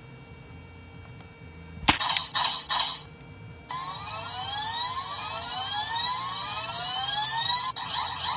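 Electronic sound effects from a Shinkalion Mascon toy's speaker. A click about two seconds in is followed by a short burst, then about four seconds of repeated rising electronic sweeps over a steady tone, and another click and burst near the end.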